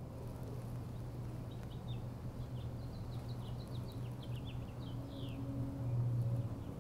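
Small birds chirping in many short, quick, falling notes over a low steady hum of outdoor ambience.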